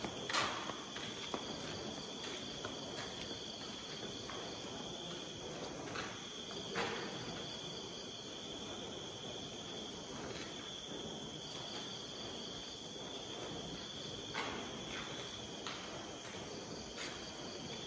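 Crickets trilling steadily in a high-pitched tone, with a few scattered soft knocks.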